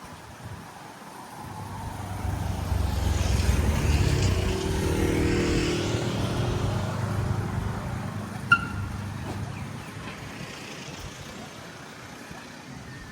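A motor vehicle passes by, its engine and tyre noise swelling to a peak about four seconds in and then slowly fading away. A brief sharp chirp sounds about eight and a half seconds in.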